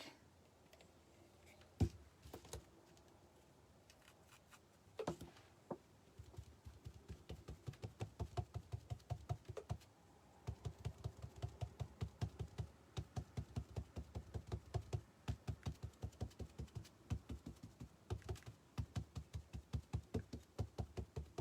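Foam pouncer dabbing black chalk paint onto a small decorative truck: a faint, rapid run of taps, about five a second, with a short pause partway through. A couple of single knocks come before the dabbing starts.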